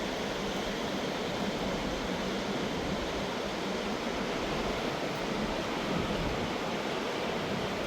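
Mountain river rushing over its bed: a steady, unbroken noise of running water.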